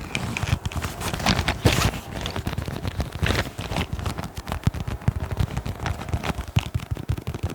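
ASMR tapping and scratching close to the microphone: fast, irregular taps and short scratchy strokes with no steady rhythm.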